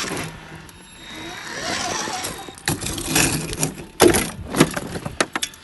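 1/10 scale RC crawler truck's motor and gear drivetrain whirring as it drives, with a run of sharp clacks and knocks in the second half, the loudest about four seconds in.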